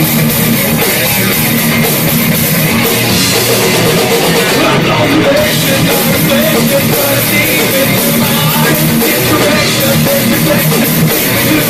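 Live heavy metal band playing loud, with distorted electric guitars and a drum kit.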